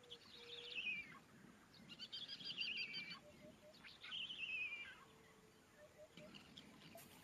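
Birdsong: short, high, warbling phrases three times, about two seconds apart, with faint lower notes between them.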